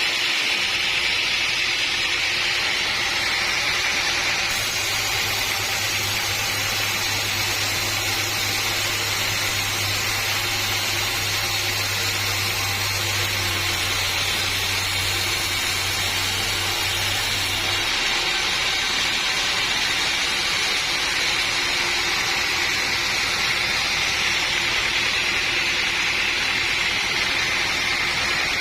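Sawmill saw machinery running steadily. A low hum comes in about four and a half seconds in and drops out near eighteen seconds.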